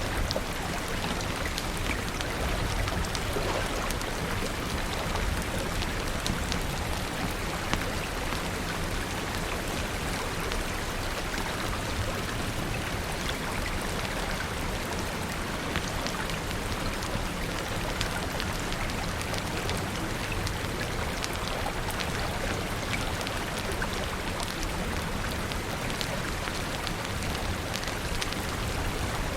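Steady rain falling, an even wash of noise with many small, sharp clicks scattered through it.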